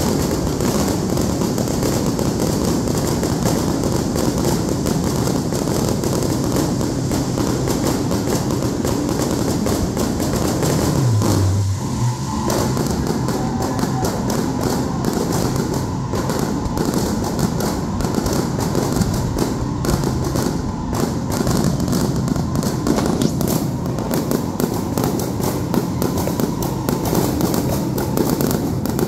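Aerial fireworks display: a dense, continuous barrage of shell bursts and crackling, with many sharp reports one after another.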